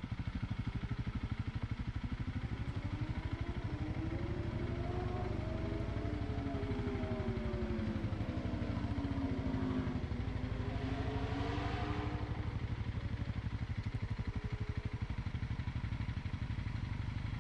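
Dual-sport motorcycle engine running at low trail speed, with a steady low pulsing throughout. Its pitch rises and falls with the throttle in the middle of the stretch.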